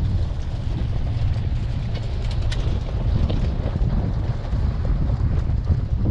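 Van driving slowly, a steady low rumble of engine and road noise with wind buffeting the microphone.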